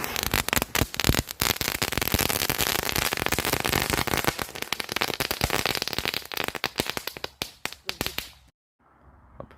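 Firecrackers going off in a dense, rapid crackle of sharp pops for about eight seconds, then cutting off suddenly.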